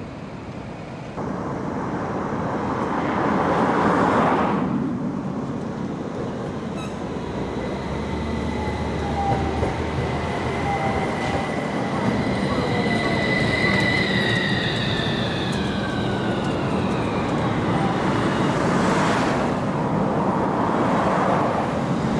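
Low-floor tram running on rails: a steady rumble of wheels and running gear, with a high whine in the middle stretch that holds and then falls in pitch.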